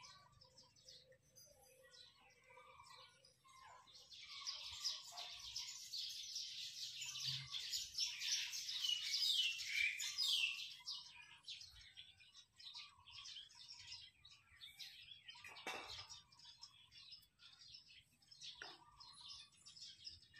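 Small birds chirping and twittering in a dense, fast chorus that swells from about four seconds in to a peak near ten seconds, then thins to scattered calls.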